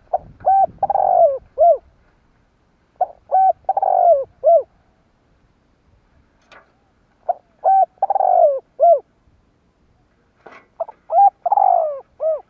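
Spotted dove (Streptopelia chinensis) singing its cooing song four times, each phrase a couple of short coos, a longer falling coo and a short final coo, repeated about every three and a half seconds.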